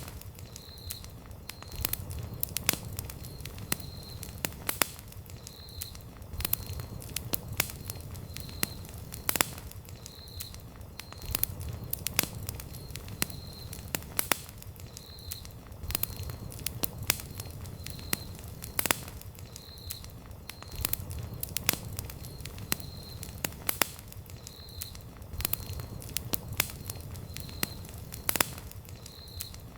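Wood campfire burning, crackling steadily with frequent sharp, irregular pops over a low, steady rumble of flames.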